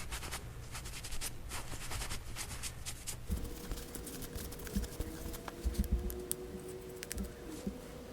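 Small scratching, tapping and clicking of hands working on a small plastic switch housing as it is dusted off and its screws are worked. A faint steady hum joins about three seconds in, with a few dull low thuds.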